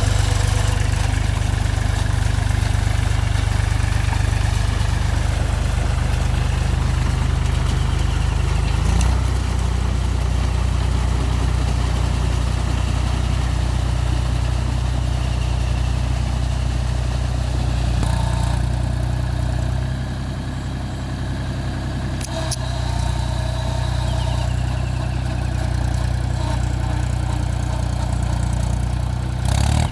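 Mahindra 275 TU tractor's three-cylinder diesel engine running steadily with a low drone. The note shifts about nine seconds in, and the sound gets a little quieter from about twenty seconds in.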